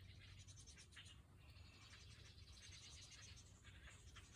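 Faint, irregular light scratching, barely above near silence, over a low steady background hum.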